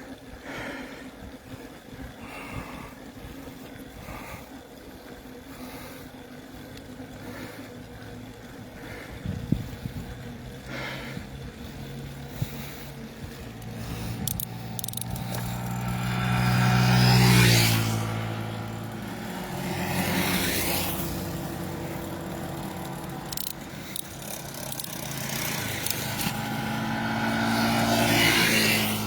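Vehicle engine running with tyre and road noise while driving along a paved road. The sound swells louder about halfway through and again near the end.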